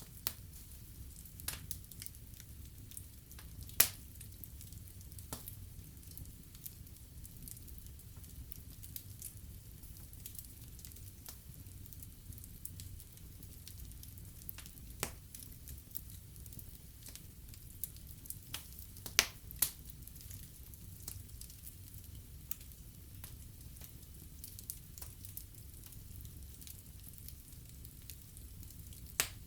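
Wood fire burning in a fireplace, crackling: a steady low rumble of flames with irregular sharp pops, a few louder snaps about 4 seconds in, around 19 seconds and near the end.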